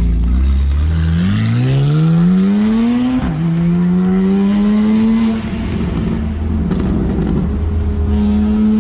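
Sports car engine accelerating hard: it revs up, drops in pitch at a quick upshift about three seconds in, pulls up again in the next gear, then eases off and holds at a steady lower pitch after about five seconds.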